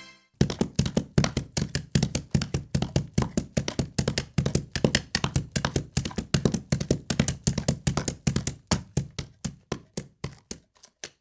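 Horse's hooves striking the ground, a quick run of knocks several times a second in an uneven beat.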